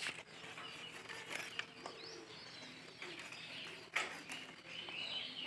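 Small birds chirping, with a single short, sharp click about four seconds in.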